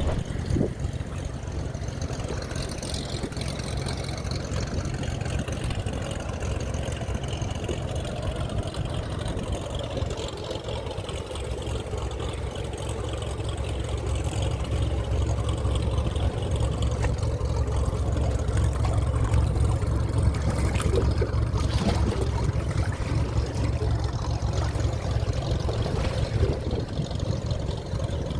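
A small seaplane's engine running with a steady low drone, heard from inside the cabin, growing louder from about halfway through.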